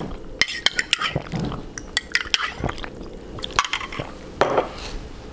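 Spoon clinking against a glass or dish amid wet liquid sounds: a string of short, irregular clicks and clinks.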